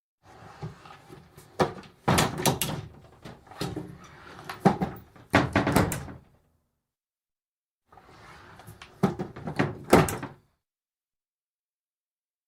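Wooden bifold door being opened and shut, its folding panels rattling with a run of sharp wooden clacks and knocks. This happens in two bouts, with a pause of about a second and a half between them.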